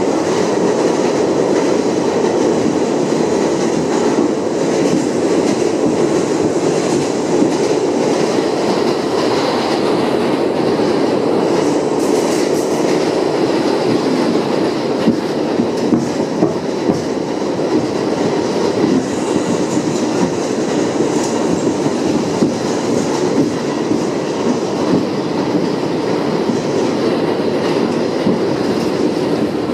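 Inside an R62A subway car running at speed: a steady rumble of wheels on rail, with an occasional sharp click as the wheels pass over rail joints.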